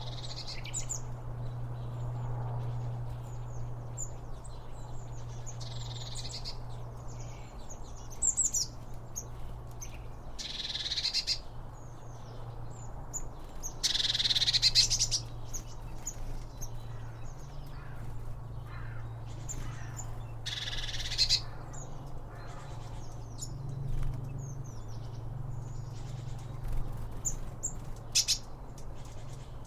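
Small songbirds chirping and calling throughout, over a steady low hum, with a few louder hissing sounds about a second long.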